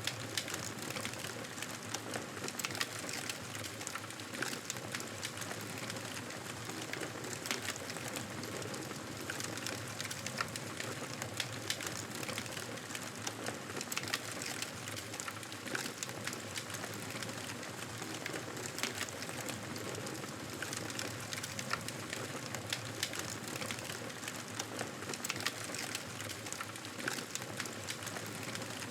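Wood fire crackling: a steady hiss with many small, sharp pops and snaps.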